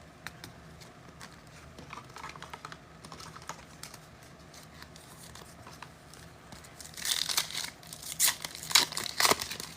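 Faint handling of trading cards, then about seven seconds in a run of loud crinkling and tearing as a foil trading-card pack wrapper is ripped open.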